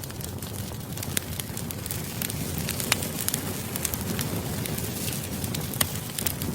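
Campfire crackling: the steady hiss and rustle of burning wood, with sharp pops scattered irregularly throughout. The loudest pop comes about three seconds in.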